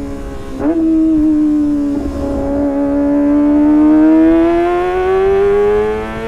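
Kawasaki ZX-25R's 250 cc inline-four engine at high revs through a Sportisi Motorsport SRX aftermarket exhaust, giving a high-pitched howl. The engine note jumps briefly about half a second in, then climbs slowly as the bike pulls, and drops sharply at a gear change near the end.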